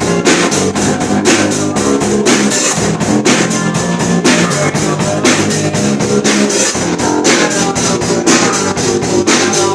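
Guitar and drum kit playing rock together at a rehearsal, with frequent, steady drum hits under sustained guitar chords.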